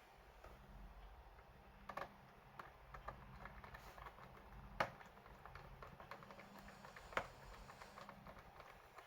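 Faint typing and key clicks on a laptop keyboard, irregular, with three sharper clicks about two, five and seven seconds in.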